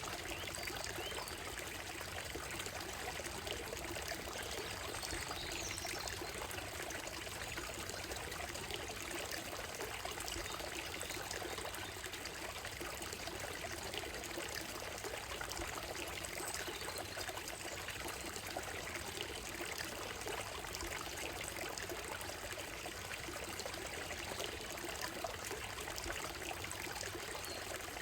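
Shallow stream running over a gravel bed and stones: a steady trickling and babbling, with a few faint bird calls now and then.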